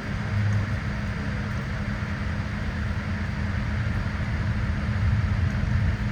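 Steady low drone and air rush inside a Boeing 787-8 passenger cabin on the ground, with a constant low hum underneath.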